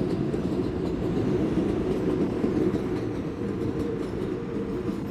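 New York City subway train running, a steady low rumble of wheels on track heard inside the car.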